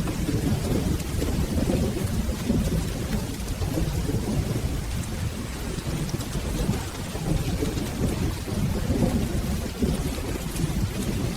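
Steady rain with a low, continuous rumble of rolling thunder.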